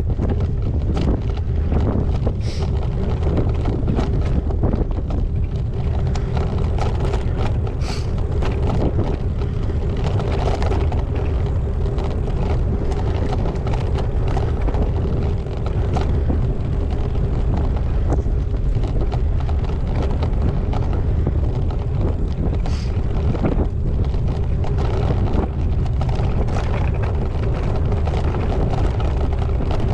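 Wind buffeting a GoPro Hero8's microphone on a moving gravel bike: a steady low rumble, with frequent small clicks and rattles from the bike rolling over rough ground.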